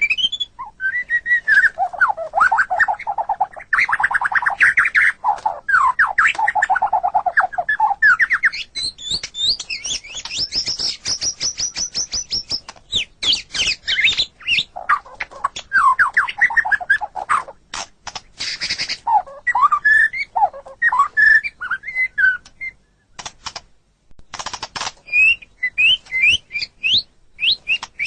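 White-rumped shama (murai batu) singing a long, varied song: fast rattling trills of lower notes, high clear whistled phrases and bursts of sharp clicking notes, with a short break toward the end.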